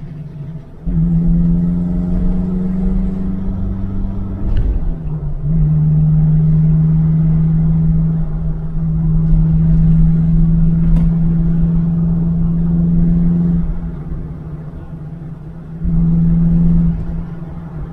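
Alfa Romeo 1750 GTV's twin-cam four-cylinder engine pulling under throttle, heard from inside the cabin. There is a brief break about four and a half seconds in, and the engine picks up again at a lower pitch. It eases off near the end, with one short swell again just before.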